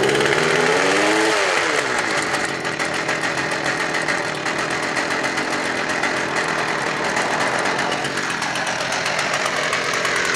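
25cc two-stroke hedge trimmer engine running just after starting: it revs up and drops back in the first couple of seconds, then runs steadily.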